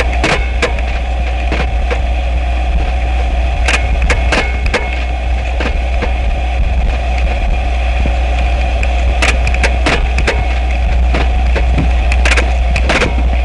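Experimental noise music: a loud, steady low drone with held higher tones, broken by irregular sharp clicks and crackles.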